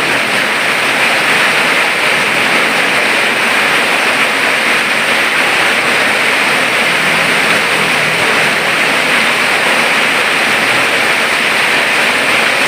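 Heavy rain falling, a loud, steady, even hiss that does not let up.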